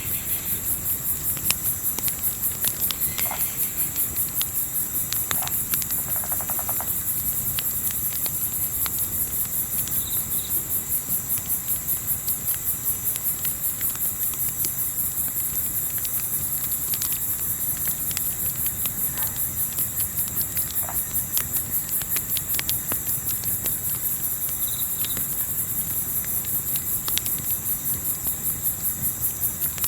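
A chorus of crickets chirping in steady, even pulses over a crackling campfire that gives scattered sharp pops, with a low rumble underneath.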